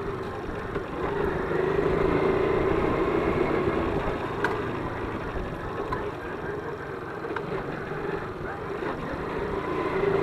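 ZiD 50-01 moped engine running steadily under way on a dirt forest road, with a few sharp knocks and rattles from bumps.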